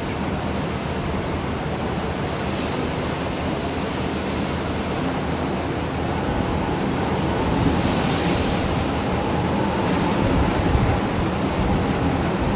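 Heavy sea waves crashing against a ship, with wind buffeting the microphone: a steady rush of water with two louder surges of spray, about two and a half seconds in and again about eight seconds in.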